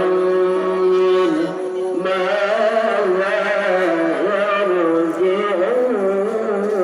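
A male qari reciting the Quran in melodic tilawah style: a long held note, then from about two seconds in a run of wavering, ornamented pitch turns.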